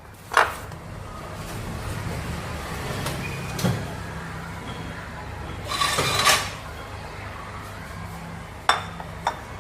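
Kitchenware being handled: a few short knocks and clatters, with the loudest cluster about six seconds in, over a steady low hum.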